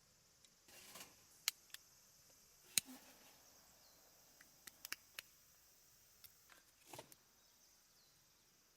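Wood campfire crackling: a dozen or so sharp, irregular pops and snaps, with two brief rustling flare-ups, about a second in and near seven seconds, over a faint steady high hiss.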